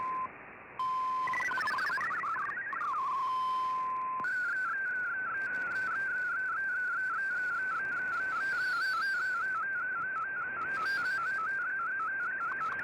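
Shortwave digital-mode data signal heard through the receiver: a steady tone near 1 kHz that drops out briefly, a short run of hopping tones, then from about four seconds in a steady whistle-like tone with regular quick dips, typical of an SSTV image being sent.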